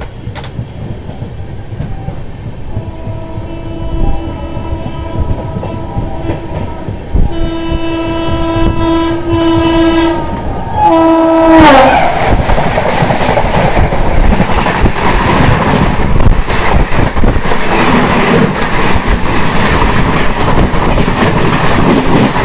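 Multi-tone horn of a WAP-7 electric locomotive on an oncoming train, sounding in several blasts that grow louder, the loudest just before it passes. About eleven and a half seconds in, the horn drops sharply in pitch as the locomotive goes by. Then comes the loud rush and wheel clatter of the Rajdhani Express coaches passing close on the next track.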